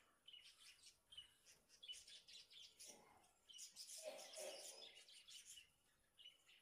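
Faint bird chirps, short high notes recurring every second or so against near silence, with a soft lower sound about three to four seconds in.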